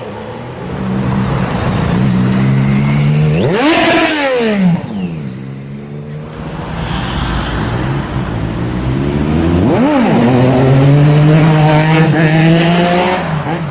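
Sport motorcycle engines revving hard as they pull away, the pitch sweeping sharply up and back down twice, about four seconds in and again near ten seconds. Between the sweeps, engines run at a steady pitch.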